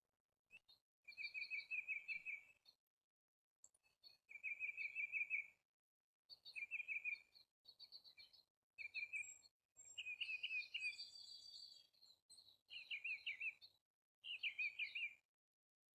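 A songbird singing a series of short trilled phrases, about seven in all, each about a second long with brief silent pauses between.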